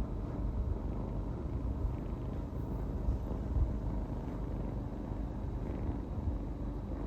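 A kitten purring close by: a steady low rumble.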